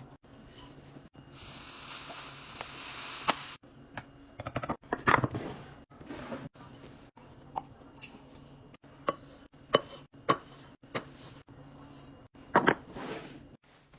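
A series of close-up taps, clicks and crackles, spaced irregularly, with a steady hiss for a couple of seconds near the start and louder clusters about five seconds in and near the end; the sound breaks off abruptly several times.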